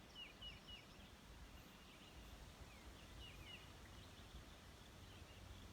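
Near silence with faint, short, falling bird chirps: three in quick succession in the first second and a few more about three seconds in.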